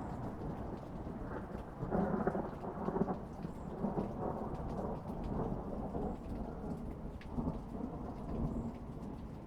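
Thunder rumbling over steady rain. The rumble swells about two seconds in and eases off toward the end, with scattered raindrop ticks throughout.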